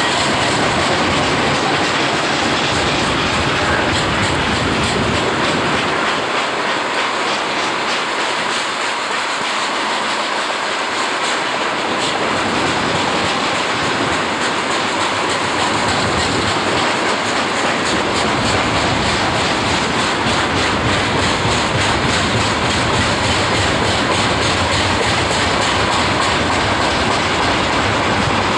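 Freight train of covered hopper wagons rolling steadily past, the wheels knocking in a regular rhythm over the rail joints.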